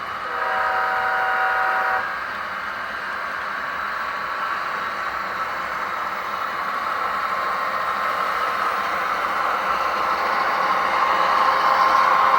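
S scale model train giving one blast from its onboard sound system, a held chord of several pitches lasting under two seconds, followed by the steady running sound of the train on the track, which grows gradually louder toward the end.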